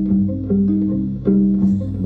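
Live band playing an instrumental passage: plucked guitar notes over a bass guitar line, with fresh notes struck about three times.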